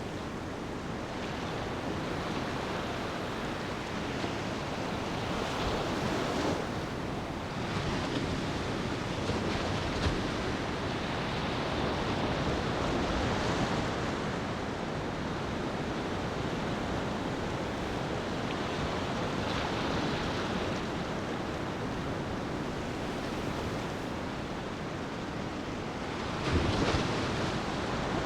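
Ocean waves washing onto a beach, a steady surf hiss that swells and falls back every few seconds, with one louder wash near the end.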